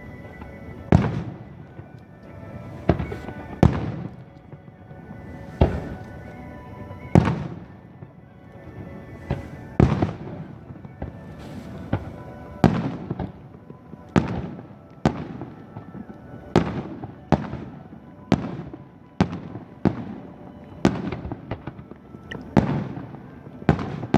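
Aerial fireworks bursting in quick, uneven succession, about one sharp bang a second, some followed by a short fading crackle.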